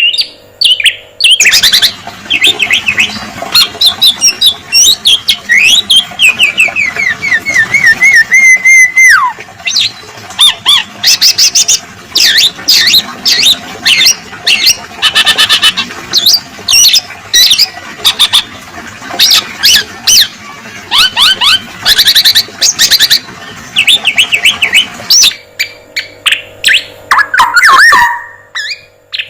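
Male black-naped oriole (kepodang emas) singing a long, varied song with fill-in ('isian') phrases: rapid chirps, trills and squawky notes, with a falling run of notes about six seconds in.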